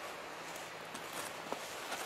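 Wood fire crackling in a fire pit: a steady hiss with a few sharp pops, the clearest about one and a half seconds in.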